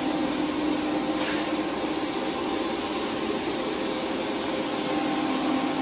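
Daewoo DMV5025-50 vertical machining center powered up and idling: a steady, even hum with a low tone over a fan-like rush from its running auxiliary equipment.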